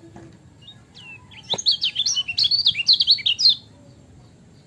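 Kecial kuning (a white-eye) singing a brief, rapid run of jumbled, high, swooping chirps for about two seconds, beginning after a few faint calls and a soft click.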